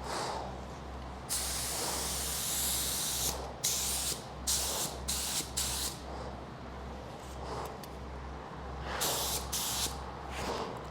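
Paint spray gun hissing as it sprays epoxy primer, in trigger pulls: one long pass about a second in, a quick run of short bursts, then a few more near the end. A steady low hum runs underneath.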